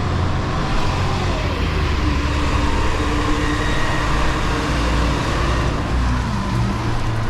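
Garbage truck's diesel engine running with road noise, its pitch rising and falling as it revs and eases off.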